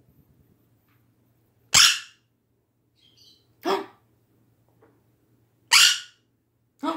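Quaker parrot giving four loud, short bark-like calls, roughly two seconds apart, the last coming sooner.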